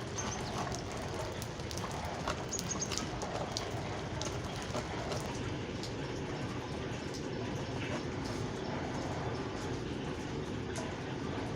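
Steady rain with scattered drips, and a few brief high bird chirps near the start.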